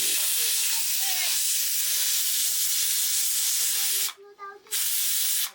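Loud steady hissing, broken briefly about four seconds in and cutting off sharply near the end.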